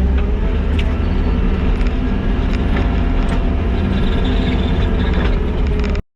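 Kubota skid steer's diesel engine running steadily under load while grading rock with the grader attachment, with scattered clicks and scrapes of stone. The sound cuts off abruptly near the end.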